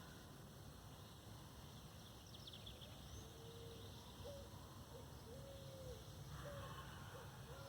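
Faint forest ambience with a bird repeating a short, low call about once a second, starting about three seconds in. A few brief high chirps come just before it.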